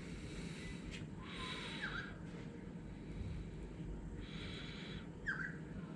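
A person breathing audibly close to the microphone, a hissy breath about every three seconds, over a steady low hum. Two short high squeaks come about two and five seconds in.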